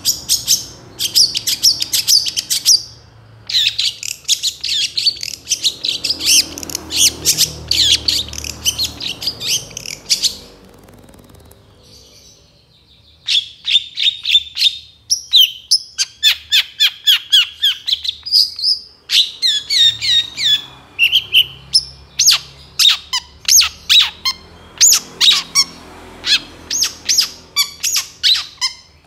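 Long-tailed shrike (cendet) singing a fast, varied song of rapid-fire chirps and harsh notes, packed with mimicked phrases. It pauses for a couple of seconds partway through, then resumes its quick runs of notes.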